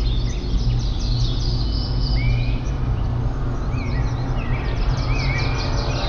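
A chorus of many birds chirping together: dense, quick, high chirps, with a few longer curving whistled notes repeated now and then, over a steady low rumble.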